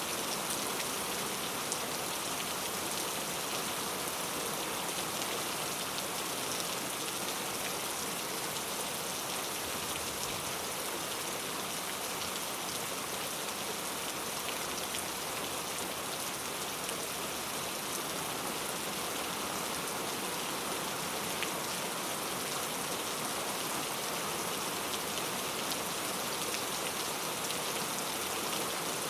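Heavy rain falling steadily, an even hiss with scattered drop ticks, unchanging throughout.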